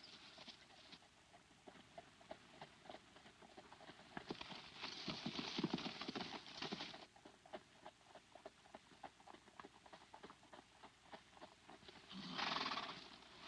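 Horses' hooves clip-clopping in a quick, steady run of hoofbeats, growing louder about halfway through and again briefly near the end.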